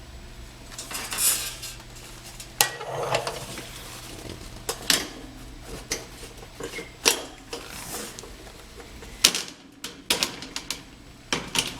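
Sheet metal clinking, knocking and scraping at a Honeywell media air filter cabinet as it is handled: separate sharp knocks about every one to two seconds, several in quick succession near the end.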